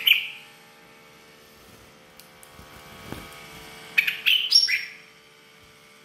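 A ciblek, a small songbird, chirping: one sharp chirp at the start, then a quick run of several loud chirps about four seconds in.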